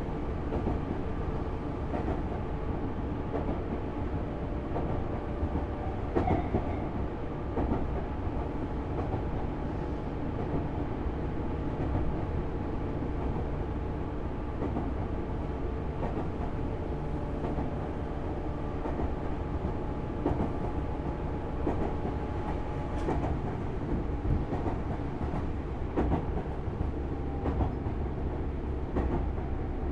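Inside a Tobu Series 6050 electric motor car, running at a steady speed: the rumble and steady hum of traction motors and gearing, with an occasional clack of the wheels over rail joints every few seconds.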